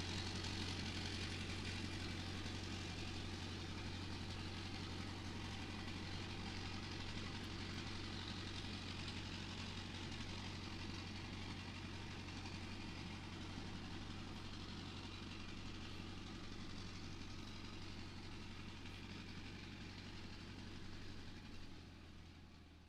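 Steady engine-like running of the DIY mini tractor's motor, a low hum under a broad hiss that fades out near the end.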